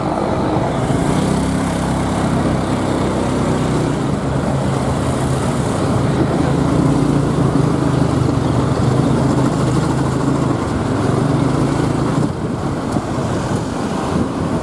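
Motorbike engine running under way through city traffic, with a steady rush of road noise; the engine note shifts up and down a little as it goes.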